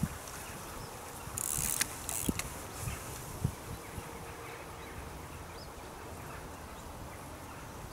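Quiet riverbank ambience: a steady low hiss of outdoor background. About one and a half seconds in comes a brief louder hiss, then two shorter ones, with a few soft knocks over the first few seconds.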